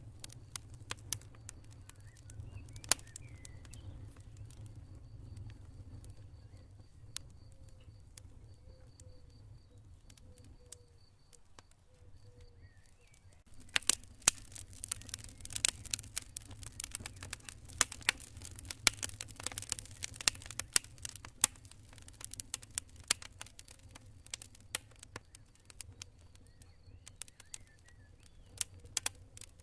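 Campfire burning, wood crackling and popping: scattered sharp pops at first, then a dense run of crackles from about halfway, over a low steady rumble. A cricket chirps faintly and steadily in the background at times.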